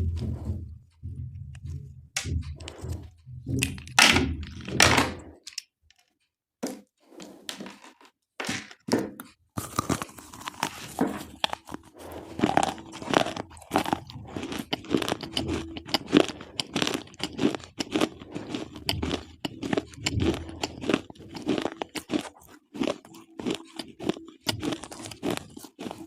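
Slate pencils being bitten and chewed: sharp, rapid crunching. There is a short lull about six seconds in, and the crunching becomes dense and nearly continuous from about ten seconds on.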